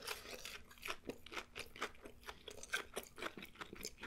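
Close-miked chewing of crispy fried food: quiet, irregular crunches and wet mouth clicks.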